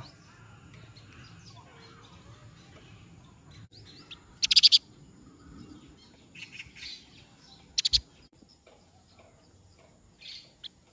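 A small bird chirping in short clusters of sharp, rapid notes: the loudest cluster about four and a half seconds in, more around six to eight seconds, and a fainter one near the end.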